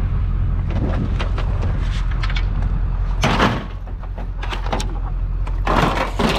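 Lengths of extruded aluminum being handled: a few light knocks, then two longer scraping clatters a little after halfway and near the end, over a steady low rumble.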